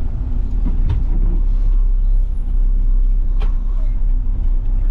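Front-load garbage truck's engine running steadily with a deep low rumble, and two brief clicks about a second and three and a half seconds in.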